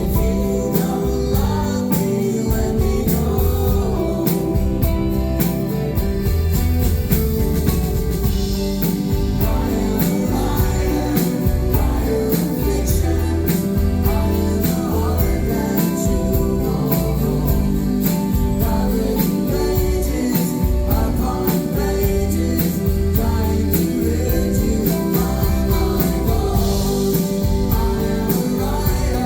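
Live rock band playing a song, with guitars and a steady drum beat, heard through the audience's recording in the room.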